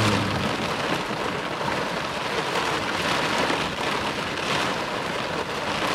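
Heavy wind-driven rain beating on a car's windshield and body, heard from inside the car as a dense, even noise that swells slightly now and then.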